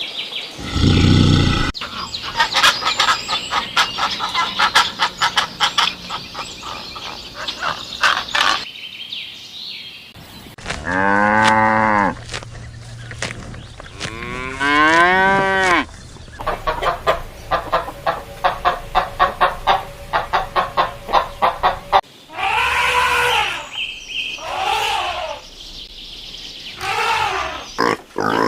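A string of farm animal calls: several long, pitched cattle moos rising and falling, with stretches of rapid, repeated short calls between them.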